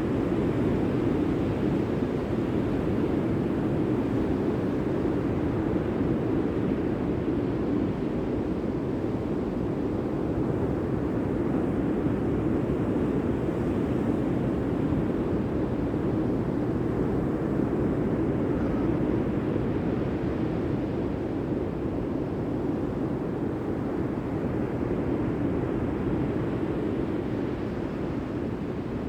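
Steady low rushing seaside noise of sea and wind on the microphone, with no distinct wave breaks.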